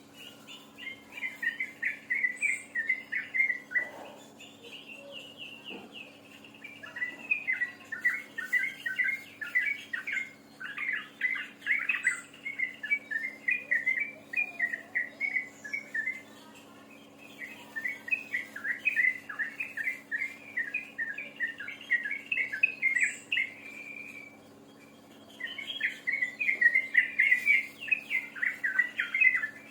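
A songbird singing long phrases of rapid chattering notes, each phrase several seconds long, with short pauses between them. A faint steady hum sits underneath.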